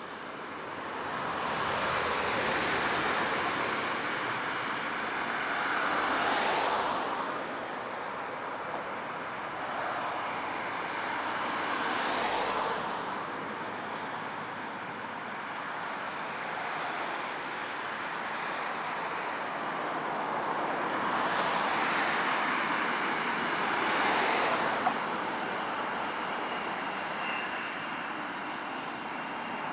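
Road traffic passing, several vehicles swelling and fading in turn. Near the end the steady high whine of an approaching jet airliner, an Airbus A330-200 on its landing approach, starts to come through.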